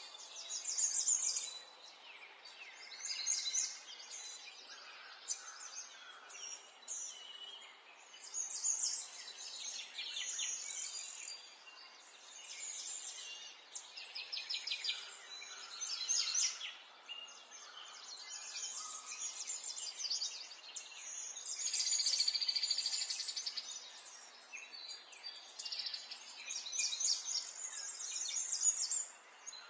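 Several birds singing and chirping, with overlapping high trills and quick calls throughout, over a faint background hiss.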